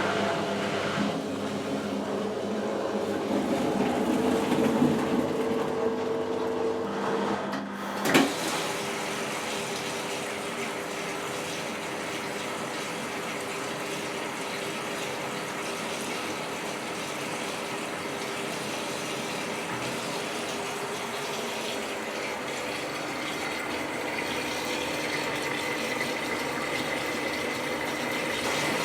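Whirlpool AWT 2071 washing machine running: a steady mechanical hum with several held tones. There is a sharp click about eight seconds in, after which the hum settles and runs evenly, and a higher whine comes in near the end.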